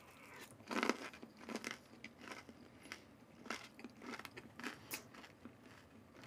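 Close-up chewing of crispy fried chicken: a string of irregular crunches, the loudest about a second in.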